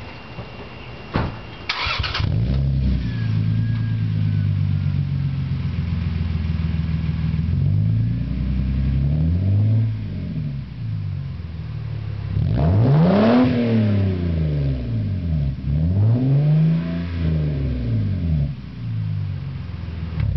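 Lexus IS300 with a Tsudo N1 cat-back exhaust: the engine is cranked and catches about two seconds in, then idles. It is blipped several times, rising in pitch and falling back to idle, with the biggest rev about two-thirds of the way through.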